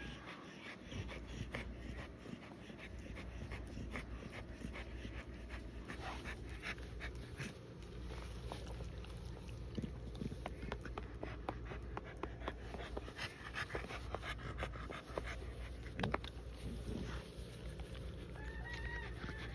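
Heavily pregnant American Bully panting steadily in short, uneven breaths, as a bitch nearing whelping typically does, with a short high whine near the end.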